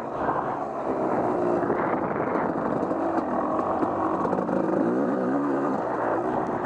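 Off-road vehicle engine running hard, its pitch rising and falling over and over as the throttle is worked.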